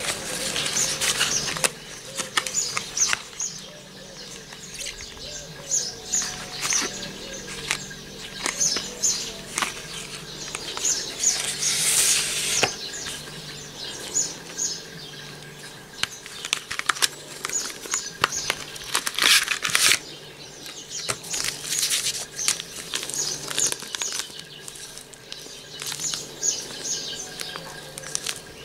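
Small birds chirping in quick repeated runs of high notes, with bursts of paper rustling as the dye box and paper sachets are handled.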